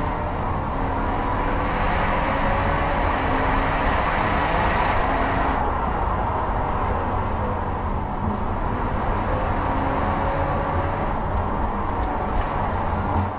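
BMW F30 328i's turbocharged four-cylinder engine heard from inside the cabin, its pitch rising and falling as the car speeds up and slows through the bends, over steady road and tyre noise.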